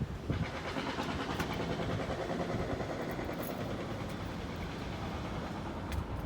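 Steady vehicle running noise that sets in shortly after the start and holds evenly.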